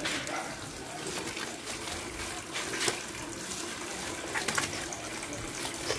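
Water running steadily from a tap during a dog's bath, with a few brief sharp sounds about three seconds in and again around four and a half seconds.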